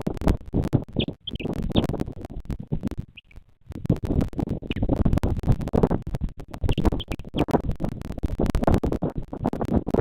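Irregular crackling and scratching noise on a nest-camera microphone, with short high chirps from a bird coming in small groups every second or two.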